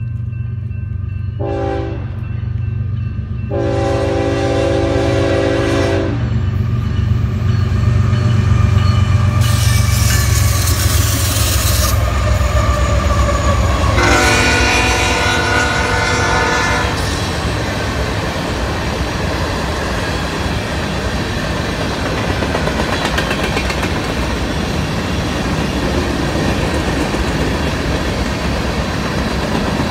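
Union Pacific locomotive's Nathan K5HL five-chime air horn sounds a short blast near the start, then two long blasts about 4 s and 14 s in, over the heavy running of the diesel locomotives as they pass. After that, covered hopper cars roll by with a steady clatter of wheels on rail joints.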